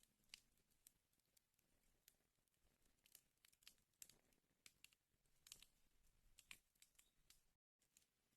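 Faint wood fire crackling: irregular sharp pops and snaps, coming in small clusters, with a brief gap of total silence near the end.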